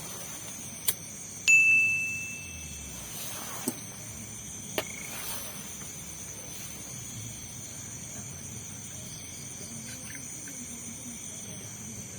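Crickets and other night insects chirping steadily. A few sharp clicks stand out; the loudest, about a second and a half in, rings on as a short metallic ding that fades within a second.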